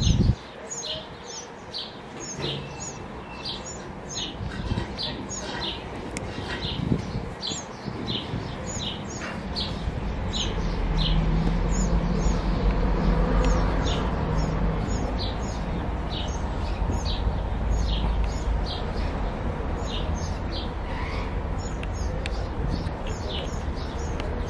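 A small bird calling over and over, short high chirps about two a second, over a steady background hiss. A low rumble comes in about ten seconds in.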